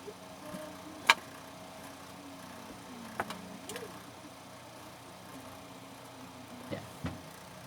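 Sharp clicks and knocks of hands and tools working on an extension cord's parts: a loud one about a second in, a lighter one about three seconds in, and two more near the end. A steady low hum runs underneath.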